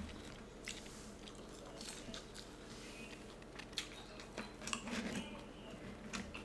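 A person chewing and biting food close to the microphone. Soft, wet mouth sounds come with scattered small clicks and smacks.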